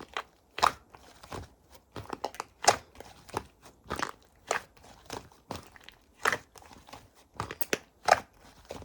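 Fluffy slime being squeezed and pressed by hand, giving irregular sharp pops and crackles about one or two a second.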